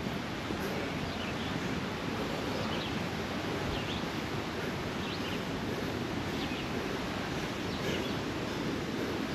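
Steady rushing of creek water flowing over rocks and falls.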